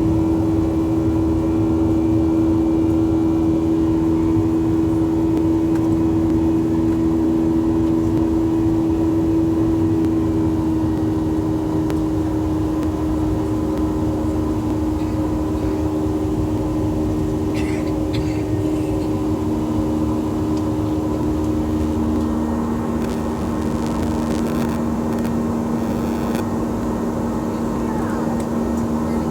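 Steady drone of a vehicle heard from inside it: a low rumble with a couple of held hum tones that shift slightly in pitch partway through.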